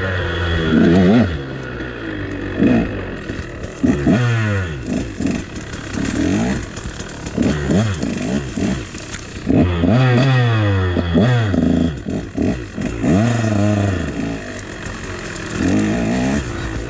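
KTM dirt bike engine revving up and down, the throttle opened and closed every second or two as it is ridden, with the pitch climbing on each opening and falling back between.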